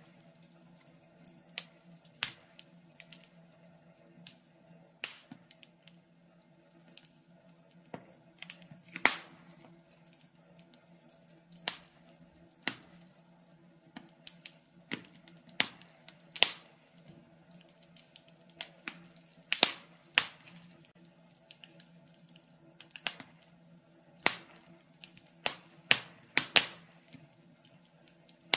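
Wood fire burning in a fireplace, crackling and popping irregularly, several sharp pops a second at times, over a faint steady hum.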